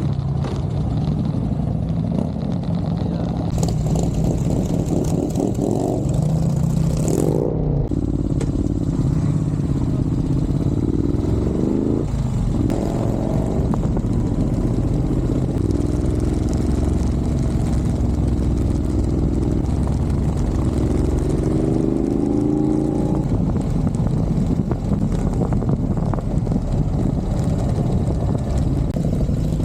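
Vehicle engines being driven through bends, revving up in rising-pitch pulls and easing off several times over a steady low rumble of wind and road noise.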